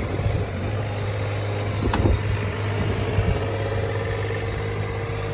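Kubota U-10-2 mini excavator's diesel engine running steadily, with a short knock about two seconds in.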